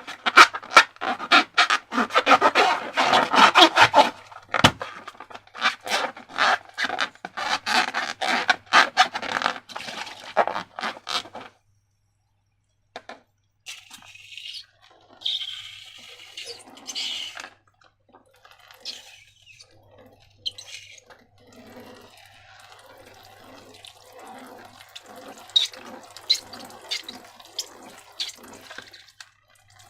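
Slime being squished and worked by hand: rapid, wet, sticky clicks and squelches that thin out after about eleven seconds into softer, sparser squishes.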